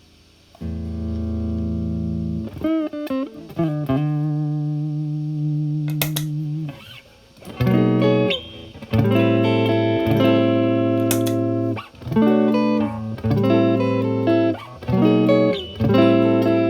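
Electric guitar, a Stratocaster with single-coil pickups, played through a Marshall Valvestate amp: a held chord, then single notes with vibrato and a long sustained note. From about eight seconds in come louder strummed chords through a Timmy transparent overdrive pedal at minimum gain.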